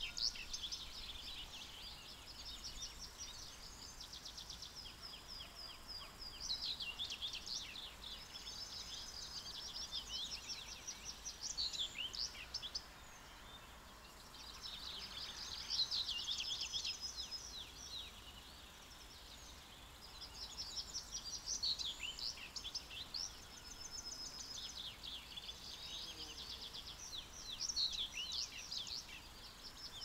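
Songbirds singing in the open, a dense run of high, rapid trills and chirps that goes on almost without a break, easing briefly twice near the middle.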